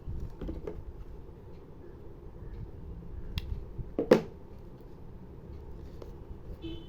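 Scattered small clicks and taps over a low rumble, with one sharper, louder click about four seconds in.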